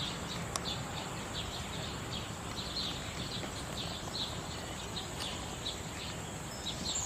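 Rhythmic high chirping outdoors, about two or three short chirps a second, over a steady low hiss.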